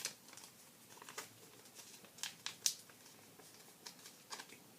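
Sheet of origami paper being handled and folded by hand: short faint rustles and crisp ticks as it is opened out and reverse-folded, the sharpest a little after two and a half seconds in.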